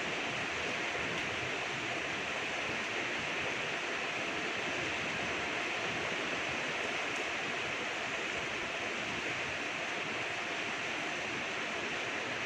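Rain falling steadily: an even hiss with no breaks or single drops standing out.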